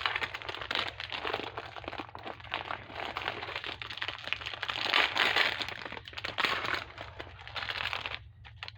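Crinkling and crackling of a plastic noodle packet being handled, with many small crackles throughout. A steady low hum runs underneath.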